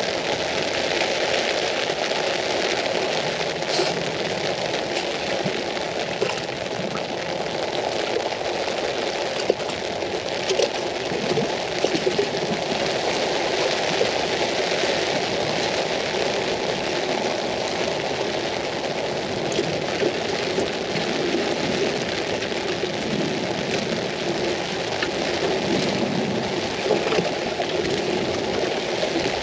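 Rain falling on an umbrella overhead: a steady hiss dotted with many small sharp drop ticks.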